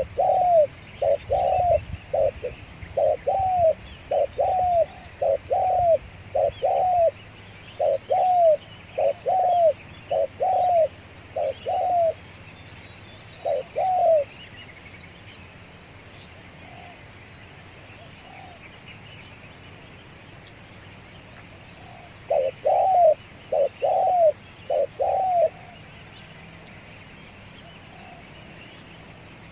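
Spotted dove (tekukur) cooing: a long run of short, low, repeated coos, a pause of several seconds, then a shorter run near the end.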